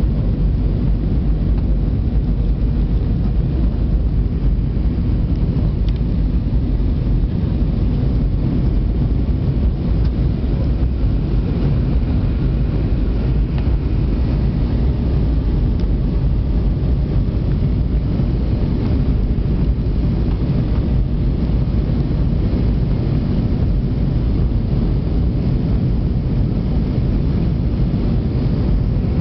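Steady low rumble of engine and airflow inside the cabin of an Airbus A320-200 in flight.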